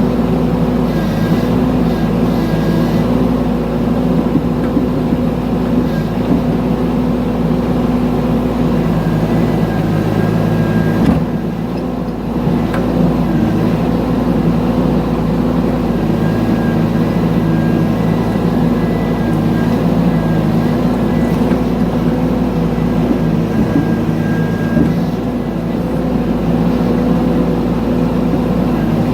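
Mini excavator engine running steadily, with a high whine that comes and goes.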